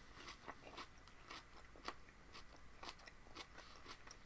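Faint chewing of raw produce: short crunches roughly two to three times a second.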